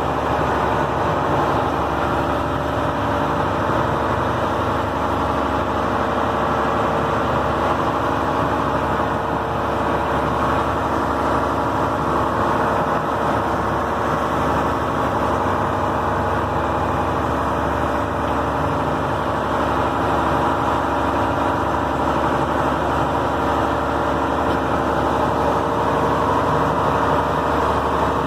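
Fishing boat's engine running at a steady drone, heard on board.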